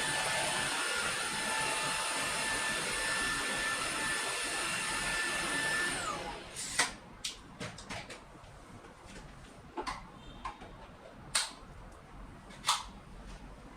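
Laresar Elite 1 cordless vacuum cleaner running with a steady whine, then switched off about six seconds in, its motor spinning down with a falling pitch. This is followed by several sharp clicks and knocks from handling.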